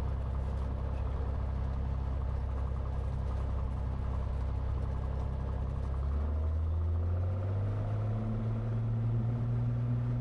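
Cessna 182T's Lycoming IO-540 six-cylinder engine and propeller running steadily at low power. About six seconds in the pitch rises and then holds higher, as power comes up for the takeoff roll.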